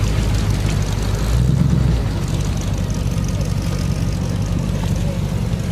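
Motor vehicle engine running steadily at low revs, a deep even drone that swells briefly about a second and a half in.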